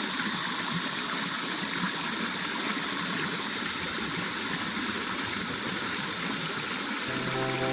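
Stream water running steadily with an even rushing hiss. Music with sustained low tones comes in just before the end.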